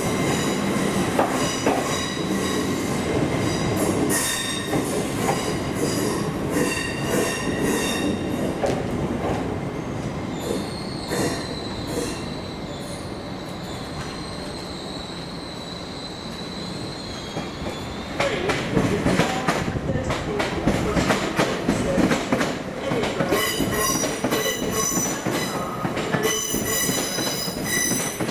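Train wheels running through the station over rail joints and points, with a series of clicks and knocks. A high, steady wheel squeal is held for several seconds in the middle, and more squealing follows near the end.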